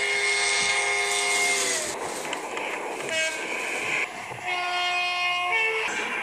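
Train horn sounding a multi-note chord held for nearly two seconds, its pitch falling as it ends, then a rush of noise, a short toot about three seconds in, and another long blast from about four and a half seconds.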